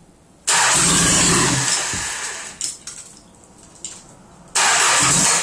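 Citroën BX 1.9-litre diesel engine being cranked and started from cold, its first start after a rebuild. There are two starting attempts: a sudden loud burst about half a second in that fades over a couple of seconds, then another loud burst about four and a half seconds in.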